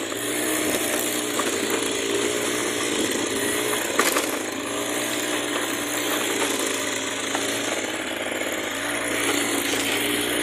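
Yamaha motocross bike engine running just after being push-started, its revs wavering up and down unevenly. There is a sharp click about four seconds in.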